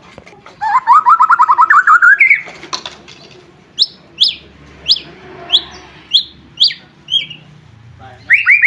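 White-rumped shama singing: a fast rising trill of about a second and a half, then a series of about eight clear whistles that each slide downward, roughly two a second, and another fast trill starting near the end.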